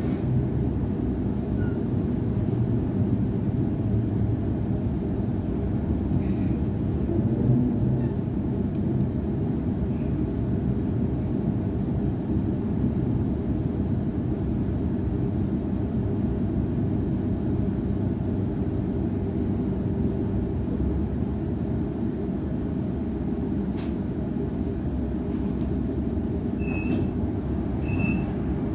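Cabin noise of a Waratah A-set electric train: a steady low rumble of wheels and traction equipment as it runs along a station platform and comes to a stop. A few short high squeaks come near the end.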